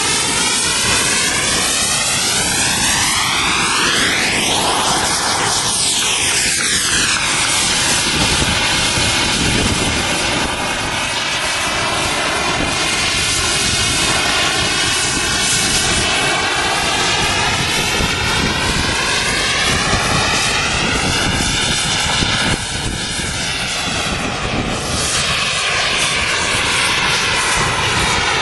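Radio-controlled model jet hovering, its engine running loud and steady. The tone sweeps up and down a few times, most clearly about five seconds in and again past the middle.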